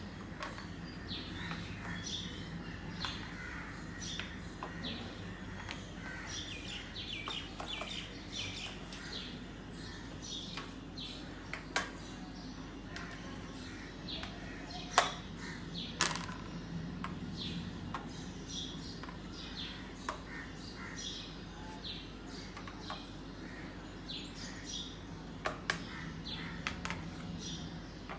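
Small birds chirping on and off throughout, with a steady low hum underneath. A few sharp clicks stand out, from clay fridge magnets being stuck onto the fridge door.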